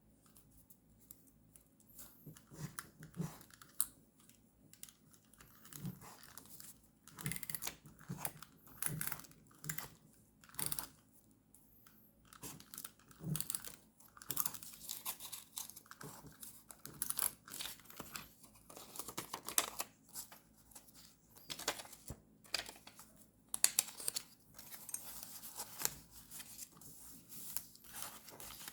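Paper and stickers being handled for journal decorating: short, irregular rustling, crinkling and tearing strokes, sparse at first and coming more often from about two seconds in.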